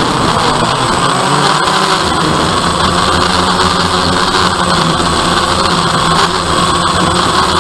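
DJI Phantom quadcopter's motors and propellers giving a loud, steady buzzing hum, its pitch shifting slightly as the drone manoeuvres.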